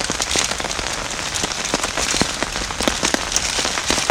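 Heavy rain falling on a tarp shelter: a steady hiss of rain with many separate drops ticking close by at uneven intervals.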